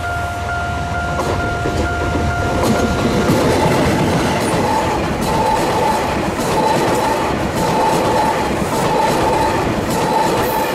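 The 'Seven Stars in Kyushu' train, a DF200 diesel locomotive hauling 77-series coaches, passing close by. A steady tone cuts off about three seconds in, as the locomotive goes past. Then come the rushing noise of the coaches and their wheels clicking over the rail joints, with a tone pulsing about once a second.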